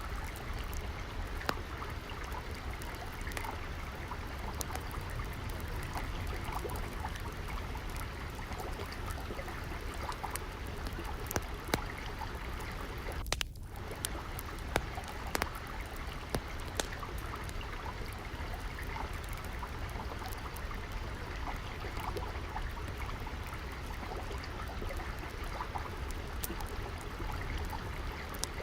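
Steady trickling of flowing stream water mixed with scattered sharp pops and crackles from a wood fire, with a brief dip in the sound about halfway through.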